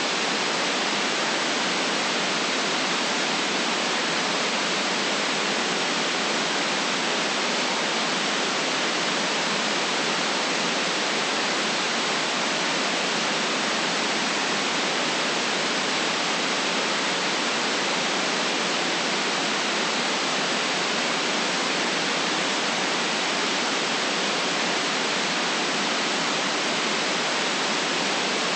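Steady white noise: an even, unchanging hiss with no deep bass and no highest treble.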